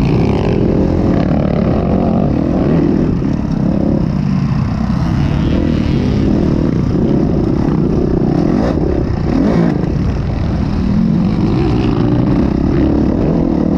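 Honda CRF450 motocross bike's four-stroke single-cylinder engine running loud while being ridden, its pitch rising and falling with the throttle.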